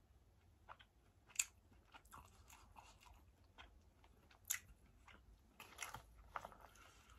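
Faint sounds of a person chewing food, with a few sharp clicks, the loudest about a second and a half in and again about four and a half seconds in.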